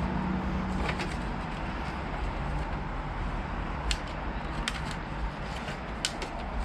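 Plastic fairing panel and its clips on a sport motorcycle being worked loose by hand: a few scattered light clicks and knocks over a steady background hiss.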